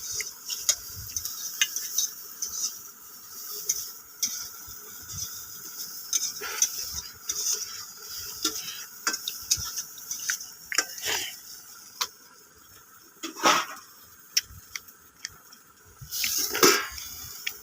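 Eating sounds: a hand mixing and scooping watery pakhala rice on a plate, with scattered clinks of the dish and wet stirring sounds, and a couple of louder sounds near the end.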